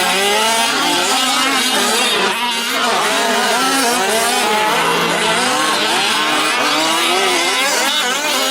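Several 1/5-scale gas RC trucks' small two-stroke engines racing, revving up and down over one another, their pitches rising and falling constantly.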